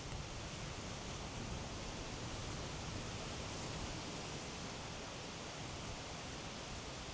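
Steady beach wind and surf noise, an even rush with a low rumble from the strong sea breeze.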